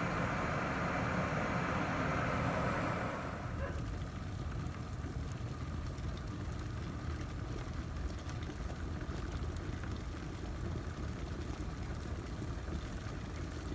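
IKICH 1.7-litre glass electric kettle at a rolling boil, a loud, steady rumbling hiss, which drops off about three and a half seconds in as the kettle's automatic shut-off cuts the heat. A lower, quieter rumble of the water settling stays on after it.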